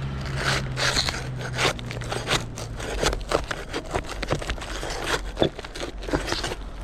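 Brittle roof shingles being worked loose and pried up, with irregular crackling, cracking and scraping as they break and drag.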